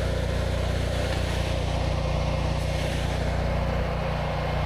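Pressure washer's gas engine running steadily at a constant speed, an even low engine drone with no change in pitch.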